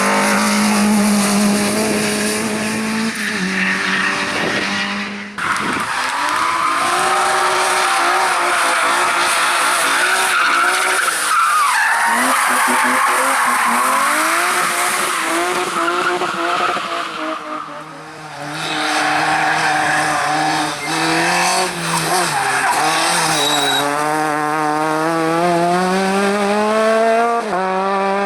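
Competition cars' engines revving hard, climbing and dropping in pitch through gear changes, with tyre squeal. The sound breaks off abruptly about five seconds in, and dips again about eighteen seconds in before another engine note rises.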